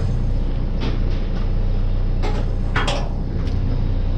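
An engine running steadily at idle with a low hum, with a few short knocks and clicks of handling over it.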